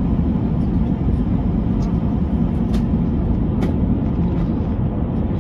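Steady low cabin noise of an Airbus A380 airliner in flight, heard from inside the passenger cabin, with a few faint light clicks.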